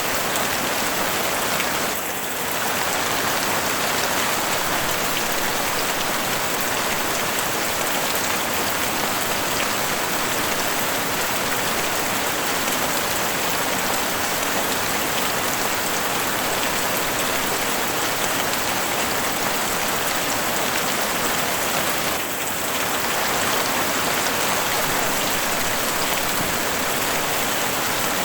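Heavy rain falling steadily on a house roof, a dense even patter. The level dips briefly twice.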